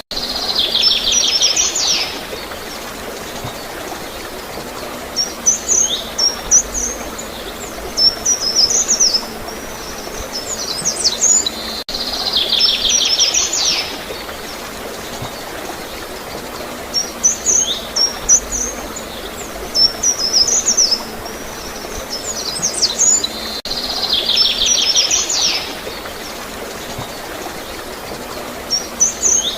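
Birds chirping in short high calls, each round ending in a buzzy trill, over a steady sound of flowing water. The pattern repeats about every 12 seconds, a looped recording.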